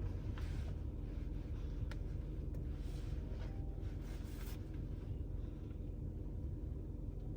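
Low, steady hum of a car idling while stopped at a traffic light, heard inside the cabin, with a few faint rustles and clicks in the first few seconds.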